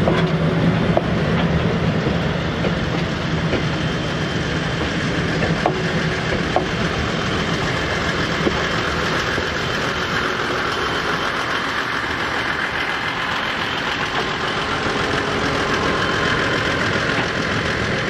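Esslinger diesel railcar train, built 1951, running past close by and away. The low drone of its engine is strong at first and fades within the first couple of seconds. The rumble of the trailing cars rolling along the track follows, with a few sharp clicks from the wheels.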